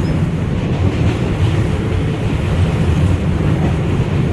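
NYC Subway R143 car running between stations: a steady low rumble of the train moving along the track.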